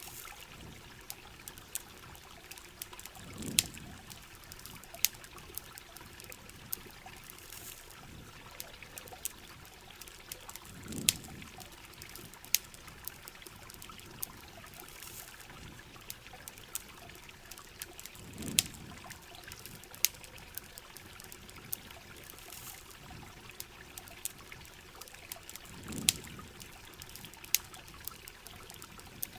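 Steady rain and running water, with frequent sharp crackling pops from a campfire. A short low whoosh comes about every seven to eight seconds.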